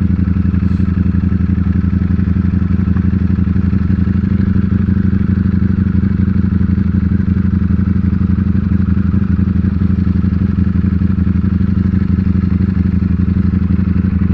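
Ducati Panigale V4 S's V4 engine running at a steady, even speed under the rider, with no revving or gear changes.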